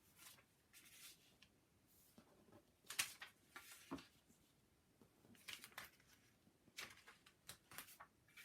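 Faint rustling and a few light clicks of paper cards being handled, with the two sharpest clicks about three and four seconds in.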